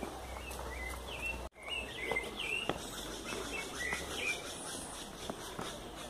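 Forest birds chirping and calling, many short notes gliding up and down, over a soft steady outdoor background. The sound drops out for an instant about a second and a half in.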